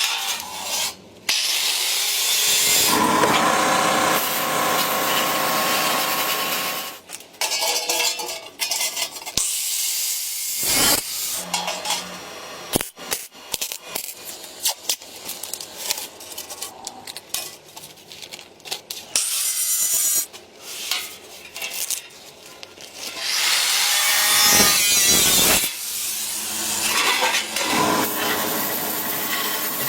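Craft tool work: stretches of scraping, sawing-like noise from a small tool running for a few seconds at a time, with clicks and knocks in between.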